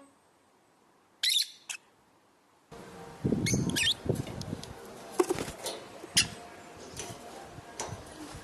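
Lovebirds giving short, sharp chirps, one or two at a time, scattered every second or so.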